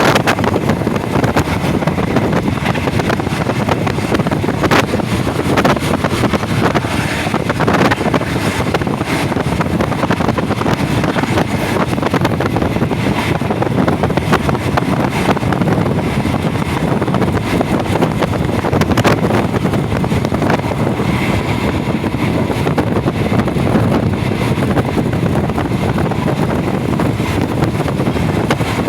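Passenger train running at speed, heard from on board: a steady rumble with wind buffeting the microphone and scattered sharp clicks from the wheels and running gear.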